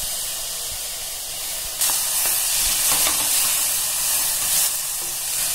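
Chopped vegetables and boiled barley sizzling in a hot pressure-cooker pan while a wooden spatula stirs them; the sizzle grows louder about two seconds in and eases again near the end.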